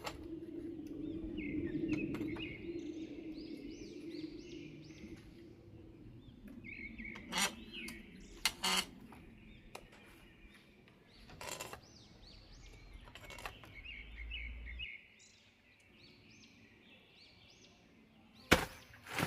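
Small birds chirping in repeated quick runs of notes, with a few sharp knocks or clicks in between and a low background rumble that cuts off suddenly near the end.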